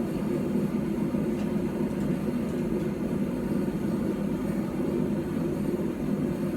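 Steady low drone of a running machine, even throughout, with no hammer blows.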